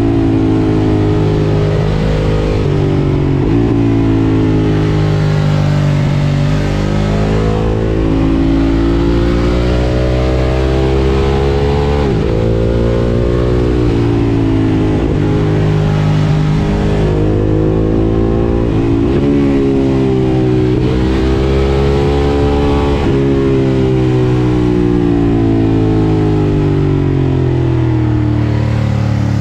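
Ducati Monster 1200 S's L-twin engine through an Akrapovič exhaust, ridden hard: the engine note climbs and then drops sharply again and again as the rider accelerates and changes gear, with wind noise underneath.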